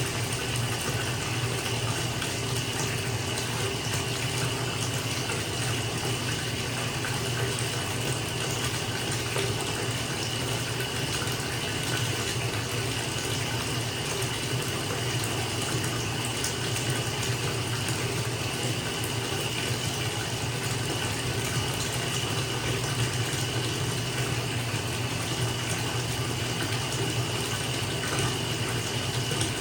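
Water running steadily from a tap into a filling bathtub, a continuous even rush with a faint steady hum underneath.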